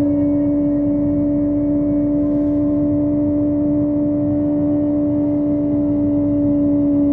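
Kawasaki ZX25R's 250 cc inline-four with a Yoshimura exhaust, running at steady high revs while cruising, one even, held engine note with wind rush underneath.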